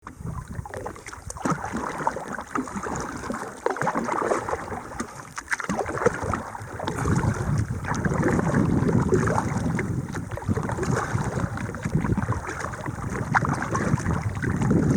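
Water splashing and sloshing around a kayak as it is paddled, with uneven splashes and wind buffeting the microphone.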